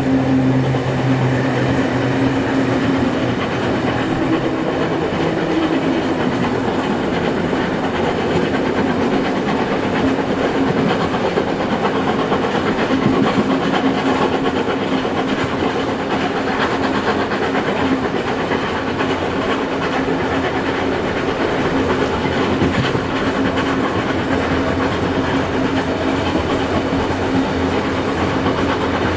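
Steady running noise of a steam-hauled passenger train heard from on board: wheels on the rails and carriage rumble. A steady hum is strongest in the first few seconds.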